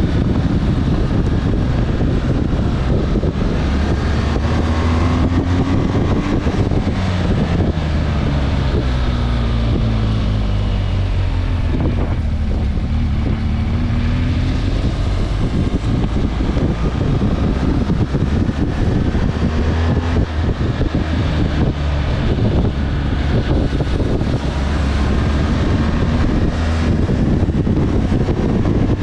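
Motorcycle engine running under way, its note rising and falling as the throttle opens and closes, with wind rushing over the microphone.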